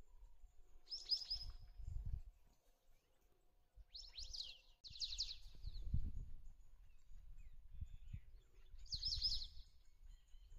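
Wild birds calling in short bursts of rapid, falling chirps, four times, over a low uneven rumble.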